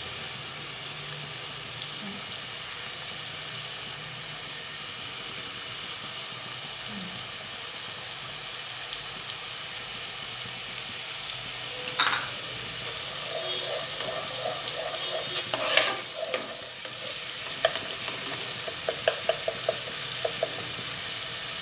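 Onion paste and ginger-garlic paste sizzling in oil in a pot, a steady hiss. In the second half a metal spoon clinks against the pot, then stirs with a run of quick scraping taps near the end.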